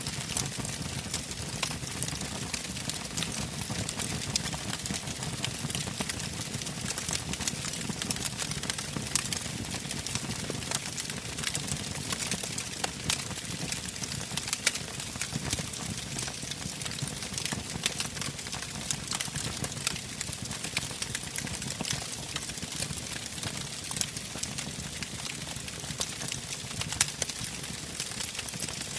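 Wood campfire crackling, with a constant scatter of sharp snaps and pops over a steady low rush of burning. A couple of louder pops stand out, one about halfway through and one near the end.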